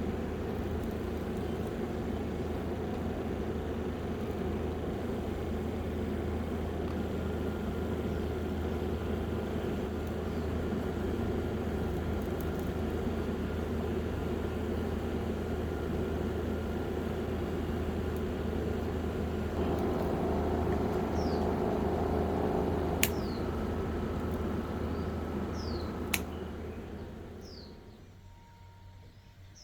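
Small electric fan motors running with a steady whir and low hum, then fading away near the end. Two sharp clicks come in the last few seconds, with a few short, faint falling chirps.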